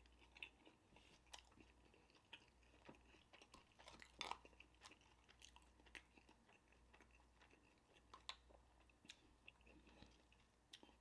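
Faint chewing of a mouthful of burger and onion: scattered soft mouth clicks, with a slightly louder cluster about four seconds in.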